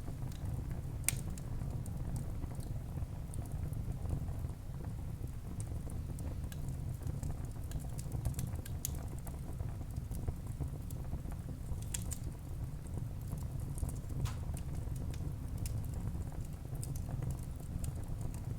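Wood fire burning in a fireplace: a steady low rumble of the flames with scattered sharp crackles and pops, the clearest about a second in and around twelve seconds in.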